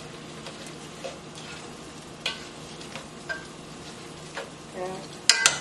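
Chicken and mixed vegetables sizzling steadily in a hot cast-iron skillet as metal tongs stir them, with occasional light clicks and scrapes. About five seconds in come a few sharp clacks of the tongs against the pan.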